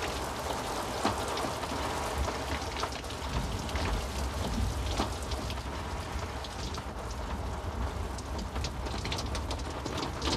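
Steady heavy rain, with many single drops striking close by over a low rumble underneath.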